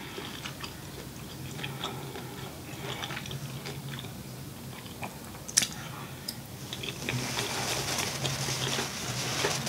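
Close-miked chewing of a calamari ring, with soft wet mouth clicks and smacks and one sharp click about five and a half seconds in. In the last few seconds a paper napkin rustles.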